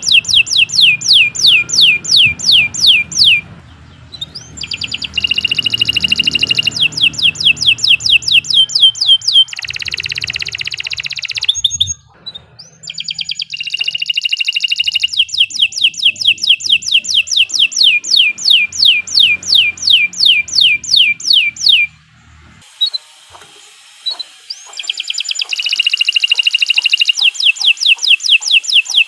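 Domestic canary singing a long, fast song. Trills of repeated downward-sweeping notes come about four a second, mixed with held buzzy rolls, broken by a few short pauses. A faint low hum runs underneath for much of it.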